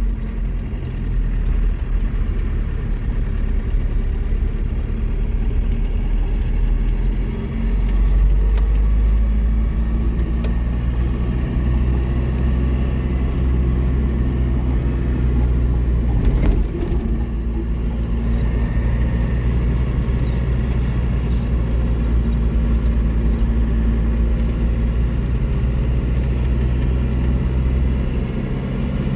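Motor vehicle engine running steadily with a deep road rumble, as in a car on the move, with a single sharp knock about sixteen seconds in.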